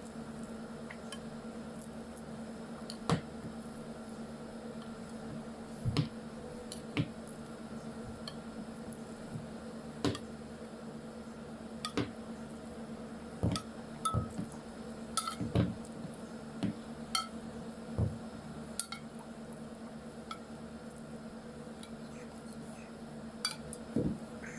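Kitchen utensils clinking and knocking against a pan and baking dish as hot sugar syrup is spooned over baked kunafa: scattered light taps, busiest about halfway through, over a steady low hum.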